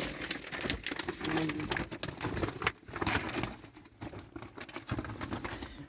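Rustling and light knocking of things being handled: a run of irregular short clicks and taps over a soft hiss.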